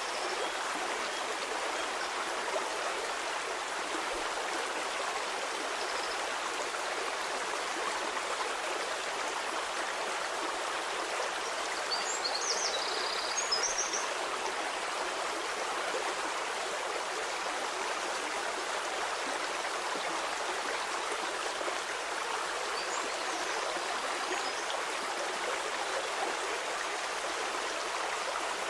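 Stream water flowing steadily over rocks, an even rushing babble, with a few short high chirps about halfway through.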